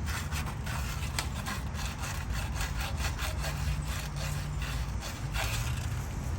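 Sandpaper rubbed by hand over a part in quick back-and-forth strokes, scraping it clean.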